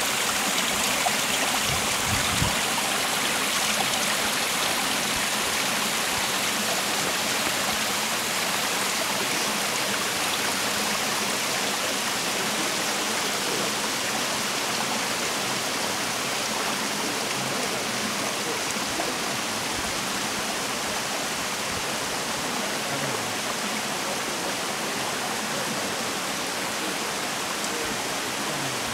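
Partly frozen waterfall, water pouring down with a steady, unbroken rush.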